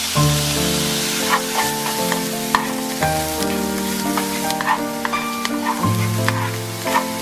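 Meat and diced bell pepper sizzling in a frying pan, with a spatula clicking and scraping against the pan, over background music.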